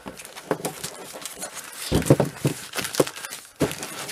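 Packaging being handled: irregular crinkling and rustling with sharp crackles, busiest a couple of seconds in.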